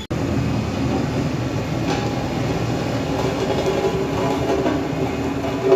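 Heavy diesel engine running steadily, a dense rumble with light metallic rattling.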